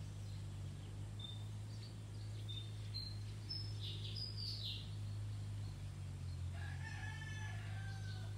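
Birds calling: a few short high chirps, then one long call of nearly two seconds near the end that drops slightly in pitch as it finishes. A steady low hum runs underneath.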